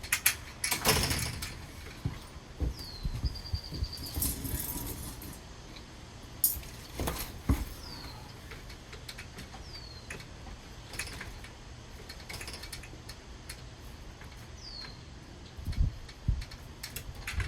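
Scattered knocks and metallic rattles of a screen door and its metal drawer-slide rails being handled and fitted, loudest near the start, about seven seconds in and near the end.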